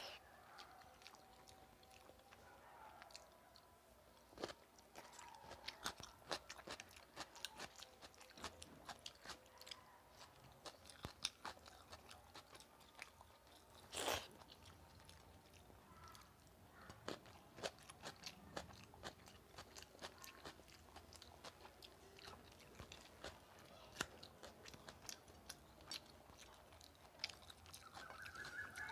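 Close-up chewing and mouth sounds of someone eating a meal of rice and curry: many small wet clicks and smacks, with one louder noise about fourteen seconds in.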